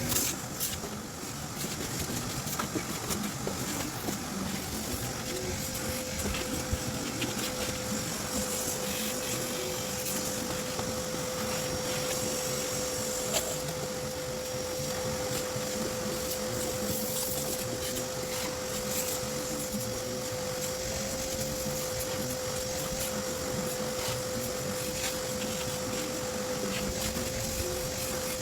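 Vacuum cleaner running steadily, a constant motor whine over airflow noise, with a few light knocks as the nozzle is worked around the car's interior.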